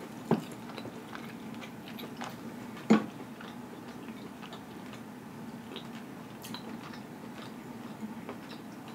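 Close-up chewing and small mouth sounds of a person eating pulled rotisserie chicken, over a faint steady hum. Two short sharp clicks stand out, one just after the start and one about three seconds in.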